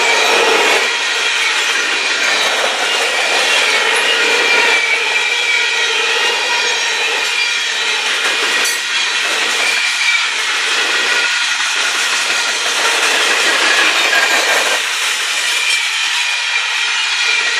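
Union Pacific freight train rolling past close by: steady, loud wheel-on-rail noise with a few thin steady ringing tones over it.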